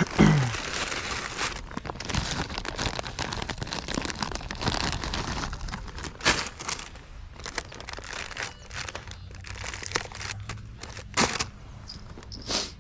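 Close, continuous crinkling and rustling handling noise with many small clicks and a few sharper knocks.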